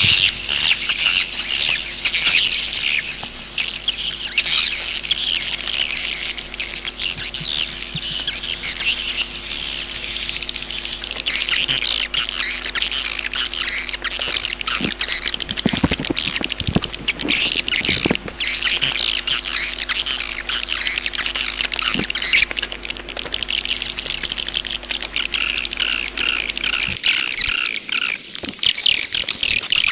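Swiftlets twittering: a dense, continuous chatter of many high chirps, the kind of swiftlet call recording played to lure the birds into a nesting house.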